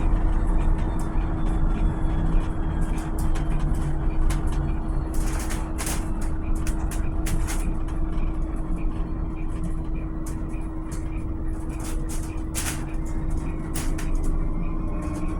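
Volvo BZL battery-electric bus running, with a low road rumble under a steady electric-drive whine and frequent clicks and rattles. Near the end a fainter whine rises in pitch as the bus speeds up.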